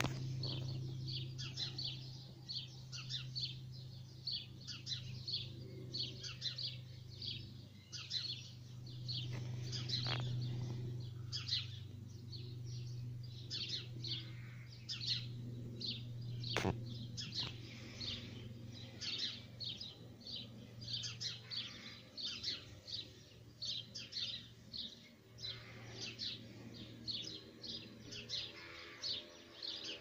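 Small songbird chirping: short, high chirps repeated about two or three times a second without a break, over a steady low hum. One sharp click about two-thirds of the way through.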